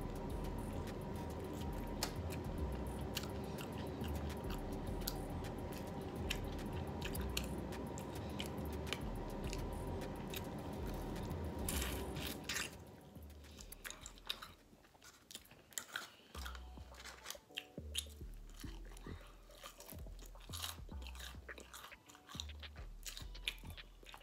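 Close-up chewing and biting on chicken wings, with many short wet mouth clicks. For the first half, steady background music plays under it and stops about halfway through, leaving the chewing on its own.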